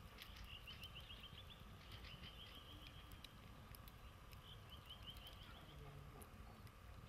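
Faint outdoor quiet with a small bird's rapid trill of short chirps, heard three times. Sparse faint clicks of burning campfire coals crackle underneath.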